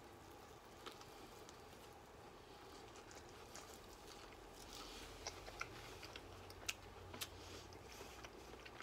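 Faint chewing of a fried celery stalk, with a few short, crisp crunches, most of them between about five and seven and a half seconds in.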